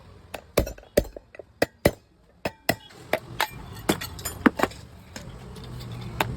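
Irregular sharp taps and knocks of hand tools on a mixer-grinder jar being repaired, about two or three a second, with a brief pause about two seconds in.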